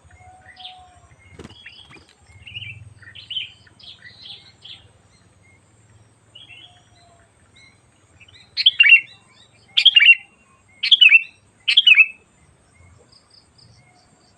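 Sooty-headed bulbul (kutilang) calling: soft scattered chirps, then four loud, sharp calls about a second apart, each falling in pitch.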